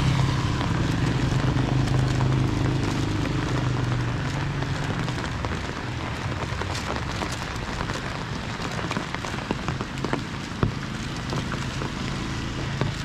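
Steady rain falling, with scattered drips. A passing vehicle's engine hum fades away over the first few seconds, and there is a single sharp tap about ten seconds in.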